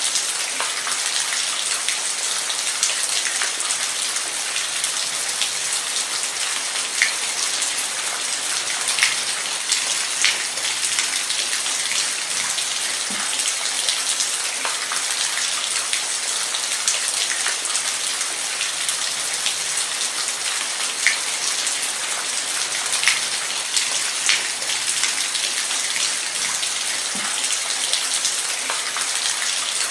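Steady rain falling, an even hiss with scattered sharper drops landing close by.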